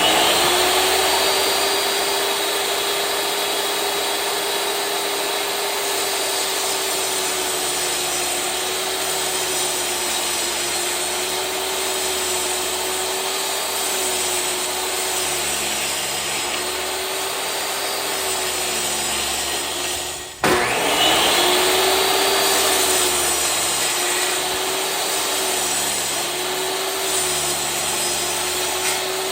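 Electric table saw running and cutting wood, its motor tone sagging slightly at times under the load of the cut. About two-thirds of the way through the saw stops briefly, then spins back up and goes on cutting.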